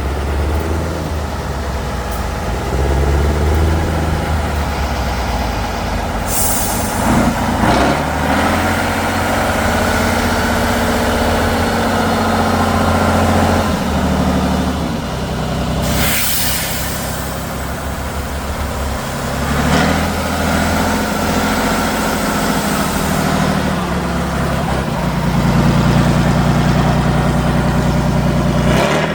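Heavy off-road truck engine revving and working under load, its pitch rising and falling again and again. Two short hisses cut in, about six seconds in and again about sixteen seconds in.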